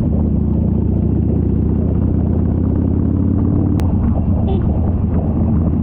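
Motorcycle engine running steadily while riding, a continuous low rumble, with one sharp click a little under four seconds in.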